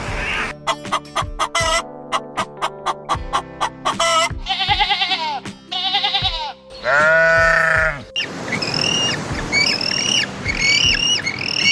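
Animal bleating in a quavering voice, three calls in the middle of the stretch, over background music with a quick row of clicks early on. Short high chirps repeat near the end.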